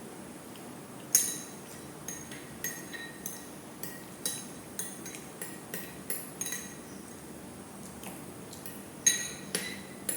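Metal cutlery clinking against a metal dish while eating: about a dozen sharp, ringing clinks at an uneven pace, the loudest about a second in and near the end.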